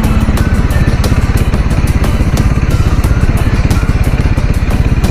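Triumph Scrambler 400 X's single-cylinder engine running steadily, a rapid even beat of firing pulses.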